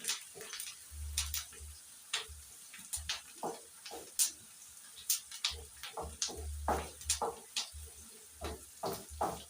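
Irregular clicks and knocks of a kitchen utensil against cookware, several a second at times, with dull low bumps under some of them.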